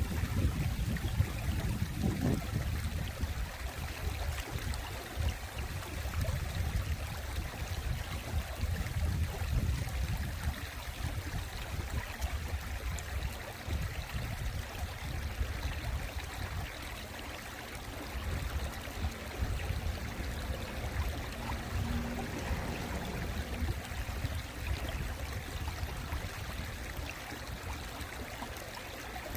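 Mountain valley stream: water flowing and trickling steadily over rocks, with an uneven low rumble underneath that is strongest in the first few seconds.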